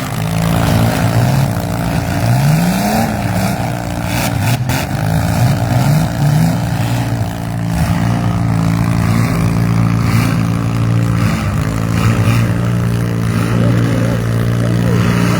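Demolition-derby vans and SUVs running hard in the arena, several engines held at high revs with some revving up and down. There is a single sharp knock about four and a half seconds in.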